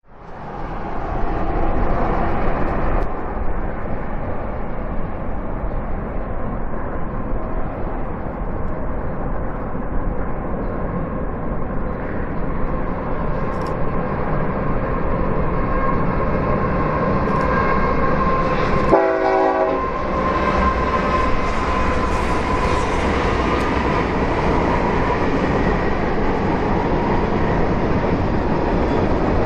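BNSF empty grain train rolling across a railroad bridge, its cars clattering steadily, with a short diesel horn blast about two-thirds of the way through.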